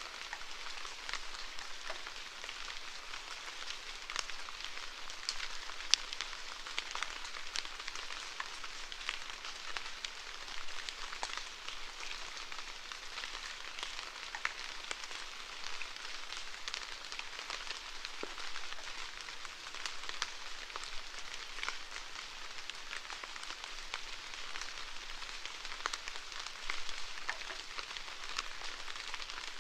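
Steady rainfall, with many separate drops ticking sharply on a hard surface over a continuous patter.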